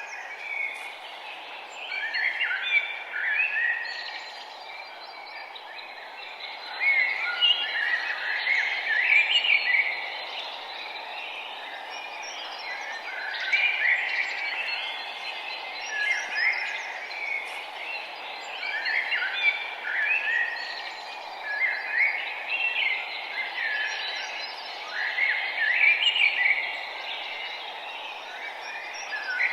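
Songbirds singing outdoors, short chirping song phrases recurring every few seconds over a steady background hiss.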